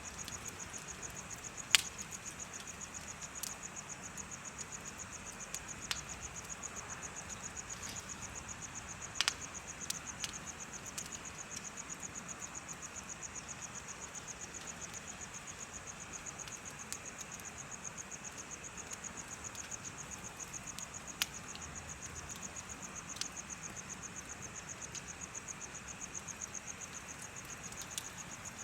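Crickets chirping in a steady, rapid high trill, with a bonfire crackling: scattered sharp pops, the loudest about two seconds in.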